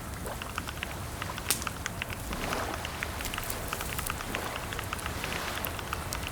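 Computer keyboard typing: a rapid, irregular patter of keystroke clicks, with one sharper key strike about a second and a half in.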